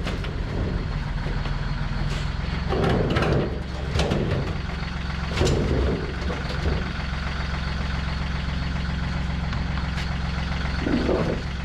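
An engine idling steadily, with a few brief clanks and knocks of shop work over it.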